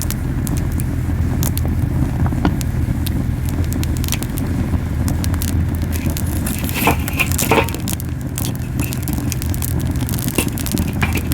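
Camellia-wood campfire burning hard, with constant popping and crackling of the wood over a steady low rumble of the flames; a few louder pops come a little past the middle. The strong rumble comes from the fire burning very hot.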